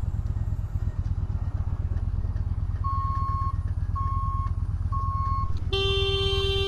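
Motorcycle engine running with a low, pulsing rumble. From about three seconds in, a high electronic beep repeats about once a second, three times, and near the end a vehicle horn starts and is held as one long, steady blast.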